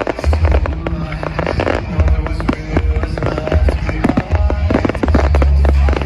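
A fireworks display, with many quick bangs and crackles, going off over loud music with a heavy bass.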